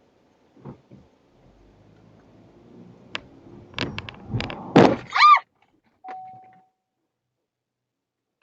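A rising rumble builds to a quick run of hard bangs and thuds over about a second and a half, typical of a vehicle collision. The bangs are followed by a short high, rising-and-falling squeal and a brief steady beep.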